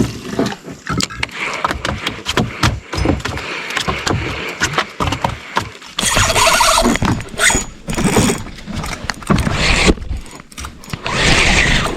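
Irregular knocks, thumps and rattles of fishing gear being handled in a small boat, with two longer noisy rushes about six and eleven seconds in.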